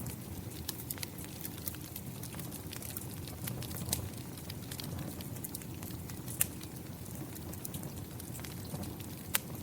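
Wood fire crackling, with scattered sharp pops, over a steady low rush of rain. The loudest pops come about six and a half seconds in and near the end.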